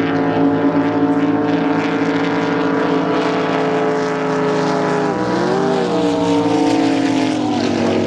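Drag boat engine running loud and steady. Its pitch dips and swings briefly about five seconds in, then settles a little lower near the end.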